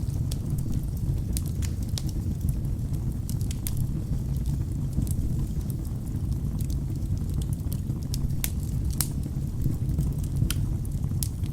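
Wood fire burning in a fireplace: a steady low rumble of flames with sharp, irregular crackles and pops from the burning logs, a few louder pops in the second half.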